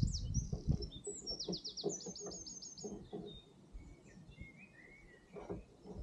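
A small bird singing: two quick runs of high, falling notes in the first three seconds, then softer, lower chirps. Faint low knocks sound underneath.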